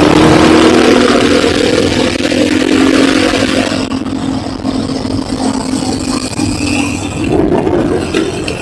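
Enduro motorcycle engine running at a steady pitch under a loud rush of noise. About four seconds in, both drop away and the engine goes quieter.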